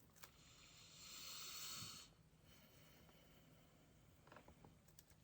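Near silence: room tone, with a faint soft hiss lasting about a second near the start.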